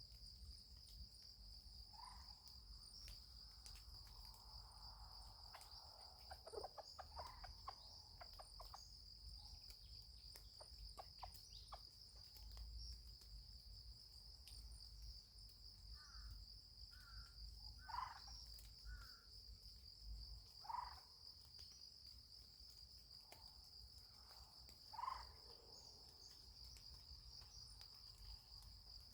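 Faint, steady high-pitched drone of crickets or other insects, with a few faint, short fowl calls scattered through it.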